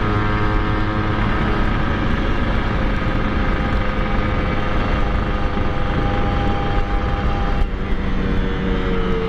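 Two-stroke motorcycle engine running steadily under way, with wind noise on the microphone. About three-quarters through there is a brief break, after which the engine pitch sags slightly. The rider says the cylinder is worn and due for a rebore.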